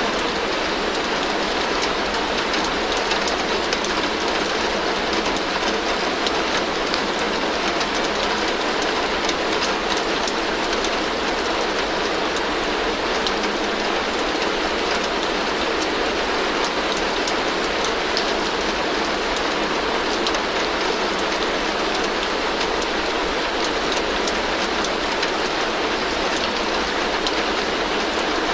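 Heavy rain falling steadily on a tin roof: a dense, even patter of drops on the metal with no let-up or change.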